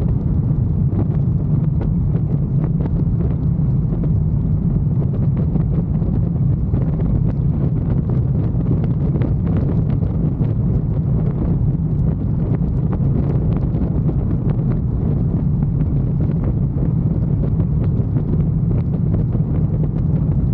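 Wind rushing over the microphone of a moving motorcycle, with its engine running steadily underneath. The sound holds a constant level throughout.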